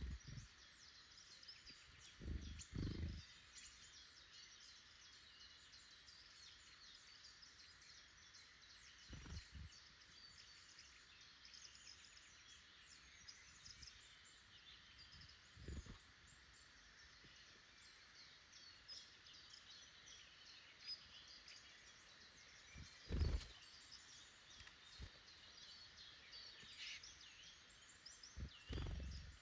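Faint woodland birdsong: many small birds chirping and calling throughout, with a few soft low thumps scattered through, the loudest about three-quarters of the way in.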